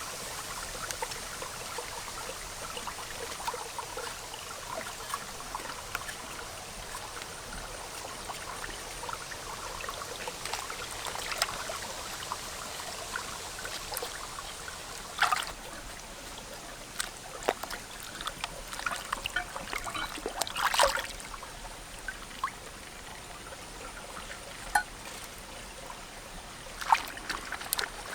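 Water trickling and pouring steadily, with scattered short splashes and clicks that come more often in the second half.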